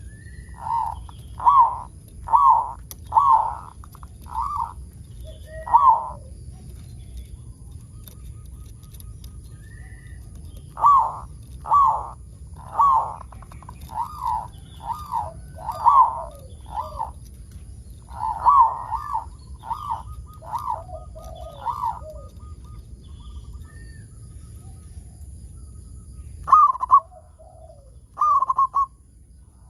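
Zebra dove (perkutut) cooing: three phrases of quick, repeated coos of six to eight notes each, then a couple of single coos near the end, over a low steady hum.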